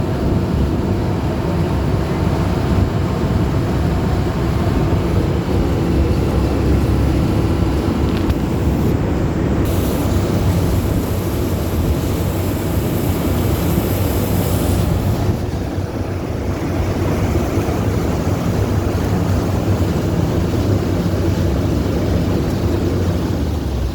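Amphibious duck boat's engine running steadily while cruising on the water, heard from aboard, with a louder hiss for a few seconds starting about ten seconds in.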